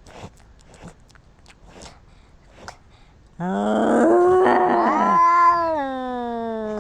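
A cat's long, low territorial yowl: it starts suddenly about halfway in and is drawn out, sliding slowly down in pitch, the warning call of a cat stand-off. Before it, only faint light ticks.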